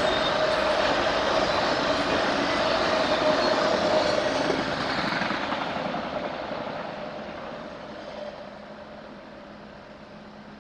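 A train rolling past the crossing, loud for the first few seconds, then fading steadily as it moves away.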